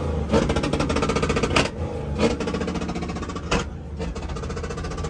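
Truck engine held at high revs, a fast rapid pulsing with a steady pitch, broken by several sharp knocks.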